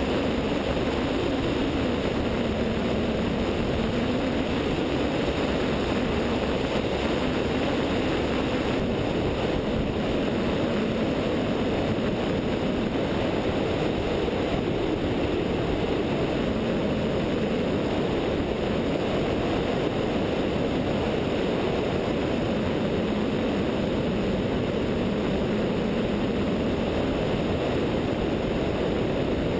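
Continental O-200 four-cylinder air-cooled engine and propeller of a Zenith light sport airplane droning steadily in cruise flight, with rushing airflow over a wingtip-mounted camera.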